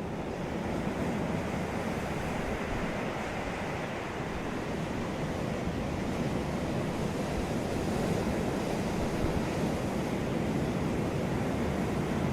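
Ocean surf washing on a beach: a continuous rushing wash of breaking waves that swells slightly about a second in and again near the middle.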